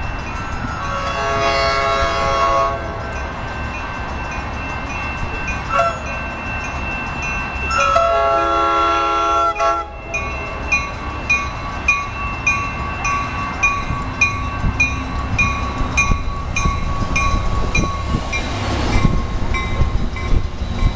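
Train sounding two horn blasts, each under two seconds, over the rumble of the passing train. From about halfway through, a bell rings steadily at about two strokes a second.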